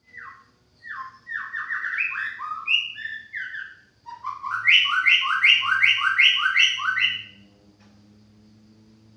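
White-rumped shama singing: a phrase of quick downslurred whistles, then after a short pause a run of about eight repeated paired notes, about three a second, which stops a little after seven seconds in.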